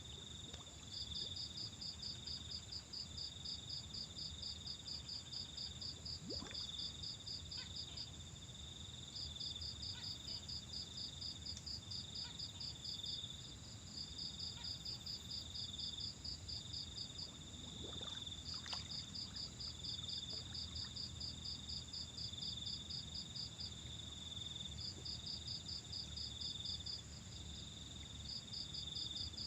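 Insects calling outdoors: a cricket-like caller repeats runs of rapid, even high-pitched pulses a few seconds long with short breaks, over a steady high drone from other insects. A couple of faint clicks sound about a third of the way in and again past the middle.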